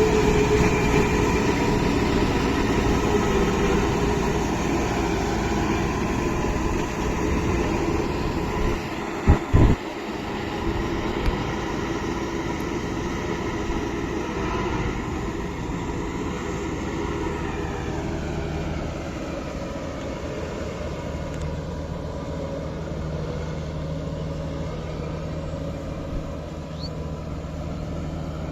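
Kubota MU5502 tractor's diesel engine running steadily under load while working a rotavator, with the sound slowly growing fainter in the second half. Two sharp knocks stand out about nine seconds in.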